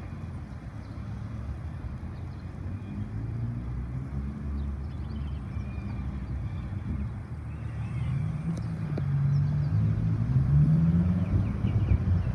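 An engine running and growing steadily louder as it approaches, its pitch climbing over the last few seconds.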